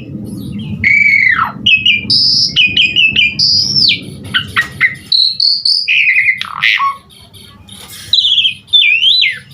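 Asian pied starling (jalak suren) singing loudly in a varied, full song of clear whistles, downward-sliding notes and quick chattering runs, packed with mimicked fill-in phrases. A low rumble sits under the first half, and the song pauses briefly near the end before starting again.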